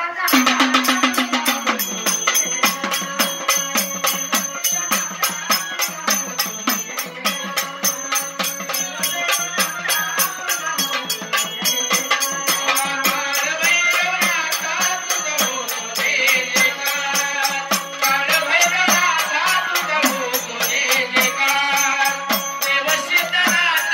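A woman singing a Marathi devotional folk song (bhajan) to Kal Bhairavnath, over fast, even hand percussion with a jingling, rattling sound.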